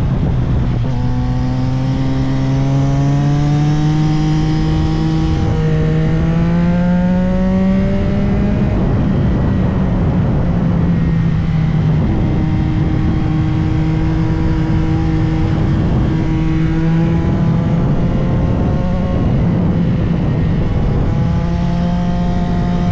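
CFMOTO 675SR-R's inline-three engine pulling hard, rising in pitch through a couple of upshifts in the first half, then holding a steady pitch before more gear changes near the end. Constant wind rush runs underneath.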